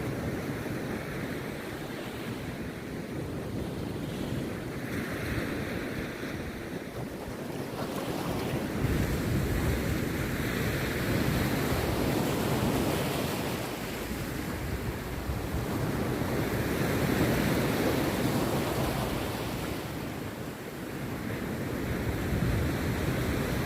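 Rough sea surf breaking on a beach: a continuous rushing wash that swells as waves break, louder about a third of the way in and again past the middle, easing briefly before building once more.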